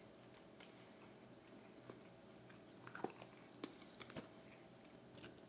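Faint chewing and mouth sounds of a person eating, with a few soft clicks in the second half.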